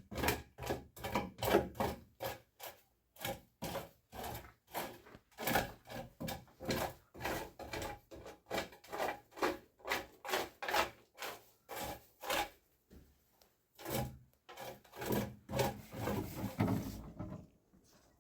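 Rhythmic back-and-forth scraping strokes, about two to three a second, from a hand tool worked on a rough surface. The strokes turn slower and less even about twelve seconds in, then stop shortly before the end.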